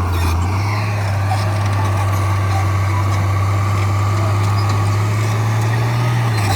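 Diesel engine of heavy earthmoving equipment running with a steady low drone. Its pitch dips briefly at the start and rises slightly near the end.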